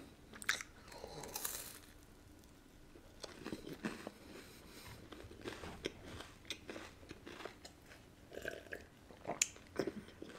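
A person chewing a chocolate-coated bar with the mouth near the microphone: quiet, scattered crunches and wet mouth sounds.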